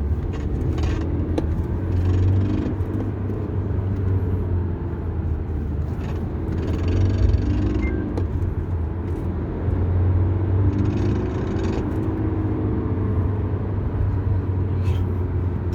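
2015 BMW 320d four-cylinder diesel under hard acceleration, heard from inside the cabin: a steady low rumble of engine and road with a buzzing rattle from underneath ("뿌드드드드"), swelling a couple of times. The mechanic suspects a parking brake cable whose retaining clip has broken, letting the cable slap against the driveshaft.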